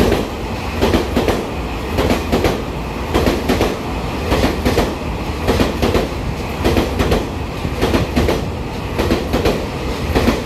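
Taiwan Railways EMU3000 electric multiple unit (set EMU3027) running past along the platform. Under a steady low rumble, its wheels click over the rail joints in evenly repeating pairs, one pair for each bogie.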